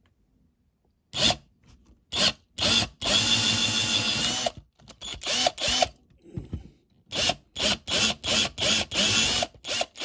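Small power drill run in a string of short bursts, with one longer run of about a second and a half, its pitch rising and falling as it spins up and slows. It is drilling out the rivets that hold a diecast model car together.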